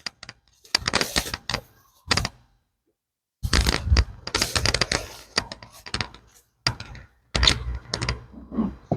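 Wooden beehive frames and boxes being pried, knocked and scraped with a metal hive tool: a run of sharp cracks, clicks and scrapes, broken by a moment of silence about two and a half seconds in.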